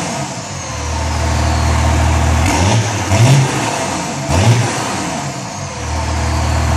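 First-generation Cummins 5.9-litre 12-valve inline-six turbo diesel running steadily, with an M&H dynamic timing advance kit fitted and its KSB cold-start advance unplugged. The throttle is blipped twice, about two and a half and four and a half seconds in, and each time the engine revs up briefly and drops back.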